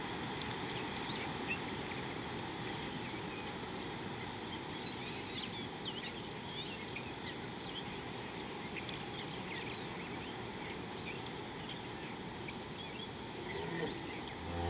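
Open-air watering-hole ambience: a steady background hiss with many small bird chirps scattered throughout. Near the end a low animal call begins.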